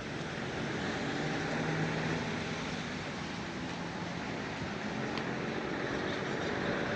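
Street ambience: a steady wash of noise with a motor vehicle's engine running close by, its low hum strongest about one to two and a half seconds in.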